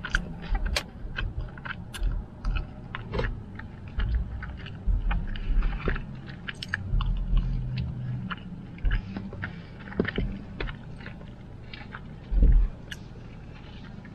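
Close-up chewing of fries, with wet mouth clicks and smacks, over a steady low rumble inside a car. A louder low thump comes near the end.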